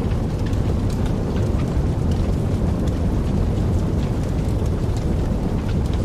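Wood fire burning in a fireplace: a steady low rumble of the flames with scattered small crackles and pops of the burning wood.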